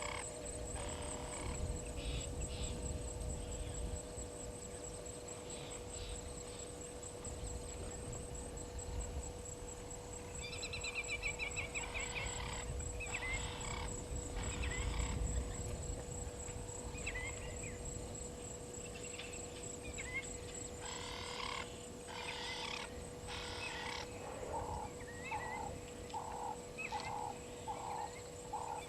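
Natural waterhole ambience: scattered short animal calls, a high trill partway through, and a run of about seven evenly spaced short calls near the end, over a low wind rumble and a steady faint drone.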